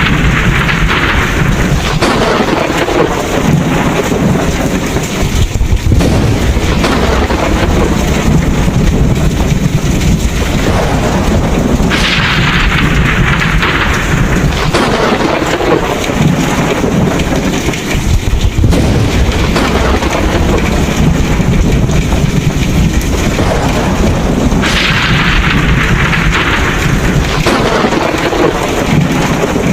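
Thunderstorm: steady heavy rain with thunder rumbling low throughout. A brighter hiss swells three times, about every twelve seconds.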